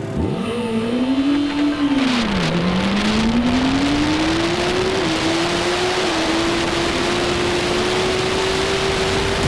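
Onboard sound of a 2007 Yamaha race motorcycle's engine under hard acceleration up a mountain road. The engine note shoots up just after the start and falls away about two seconds in. It then climbs steadily for the rest of the time, with two brief dips, all under heavy wind rush on the camera microphone.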